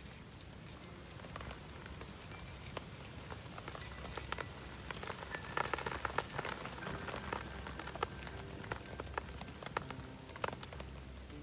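Rain pattering, mixed with a campfire crackling: a dense run of small ticks and pops over a steady hiss, busiest around the middle.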